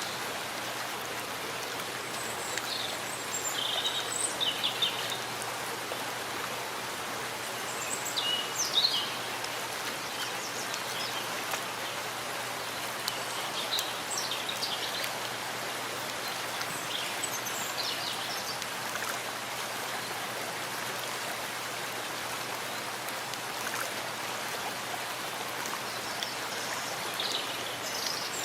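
Steady rain falling in a forest, an even hiss of drops on leaves and ground. Short high bird chirps come through now and then, clustered around 3–5, 8–9, 14–18 and 27–28 seconds in.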